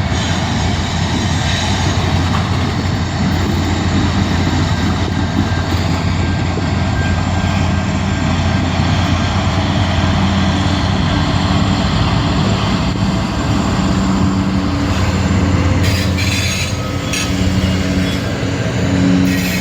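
Diesel locomotive moving a long string of freight wagons: a steady low engine drone under a continuous rumble of rolling cars.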